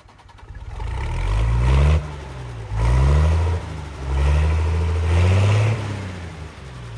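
An engine revving up several times, its pitch climbing and then dropping back, loudest about two seconds in and again around five seconds.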